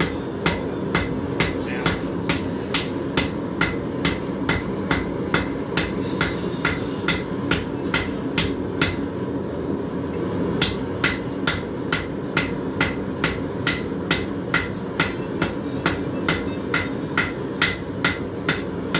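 Blacksmith's hammer striking hot steel on an anvil in a steady rhythm, about two to three ringing blows a second, with a short pause about halfway through before the hammering resumes.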